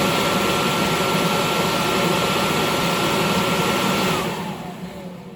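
Victoria Fans 2 HP steel exhaust blower with a three-phase 1,740 RPM motor running at full speed, a rush of air with a steady whine over it. About four seconds in it is switched off, and the whine falls in pitch and the noise fades as the fan coasts down.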